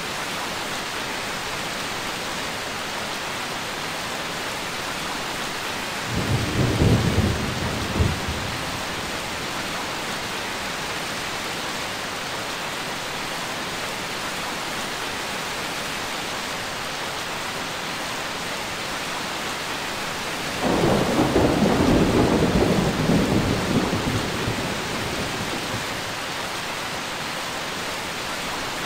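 Steady rain with two rolls of thunder: a short rumble about six seconds in, and a longer one starting about twenty seconds in that fades out over several seconds.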